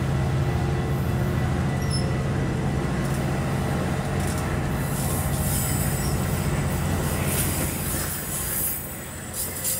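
Metra bilevel commuter train rolling past on the near track, its wheels rumbling steadily on the rails. The sound fades over the last couple of seconds as the cars draw away.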